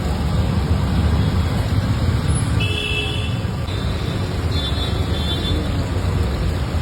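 Busy street traffic with a steady low rumble, and vehicle horns honking in short blasts near the middle.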